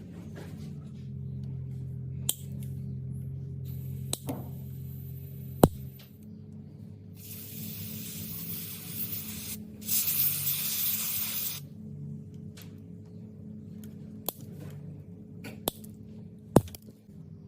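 Scattered sharp metallic clicks and two long hisses, about two seconds and a second and a half, over a steady low hum.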